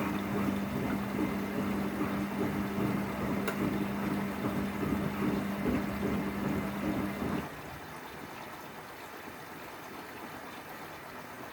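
1994 Ocean 900 washing machine moving water during a rinse: a steady electric hum over rushing water, cutting off sharply about seven and a half seconds in and leaving a quieter, even watery hiss.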